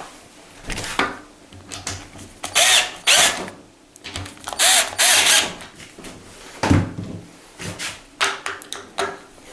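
Cordless drill-driver whirring in short bursts, two pairs of them, driving in the screws that hold a door handle's fixing plate tight, followed by a single knock.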